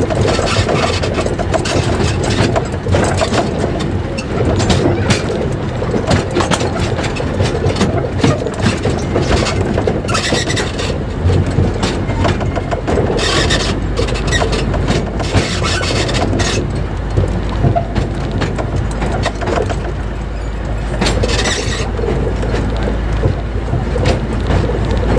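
A 2 ft narrow-gauge train running along the track, its wheels clicking and rattling steadily over the rail joints, over a steady low rumble. The rattling gets busier about halfway through as it crosses a set of points.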